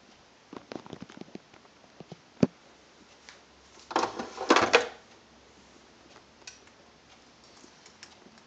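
Clicks and knocks of hard objects being handled while the Nespresso Pixie is readied. A run of small clicks comes first, then a sharp knock, then a louder clatter lasting about a second, about four seconds in. The machine's pump is not running.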